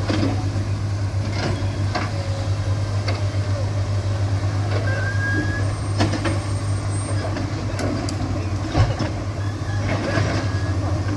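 Heavy diesel engine running steadily, with scattered sharp knocks and clanks.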